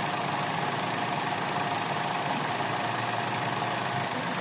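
Suzuki Celerio's small three-cylinder petrol engine idling with a steady hum. Its idle fluctuates with a slight hiccup, the persistent misfire under diagnosis, with the air conditioning not yet switched on.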